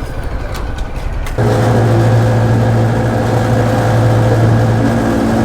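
Motor vehicle engine running at a steady speed over road and wind noise. A steady low engine drone comes in about a second and a half in and holds.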